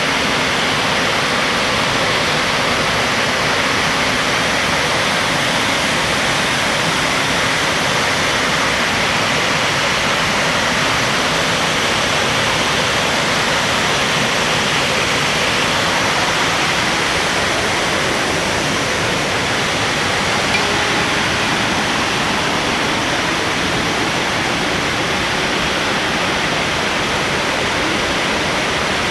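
Wide waterfall in heavy flow, swollen by typhoon rain, its falling water making a loud, steady rushing noise.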